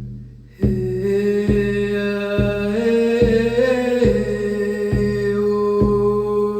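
Shamanic drum beating a steady pulse, a little over one beat a second, with a woman's sustained wordless vocal toning entering about half a second in. The held note steps up in pitch around the middle and drops back down near the end.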